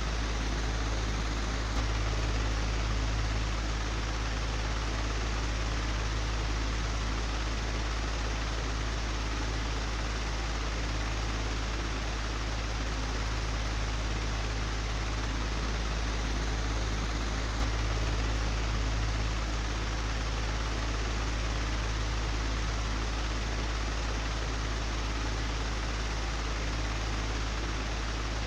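Old, broken electric fan running steadily: a deep low hum that swells slightly now and then, under an even rush of air. There are two faint clicks, about two seconds in and again near the middle.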